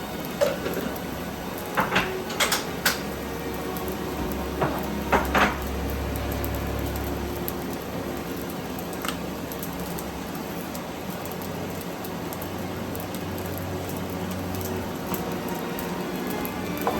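Dishes and utensils clinking: several sharp knocks with a short ring in the first six seconds, over a steady low hum.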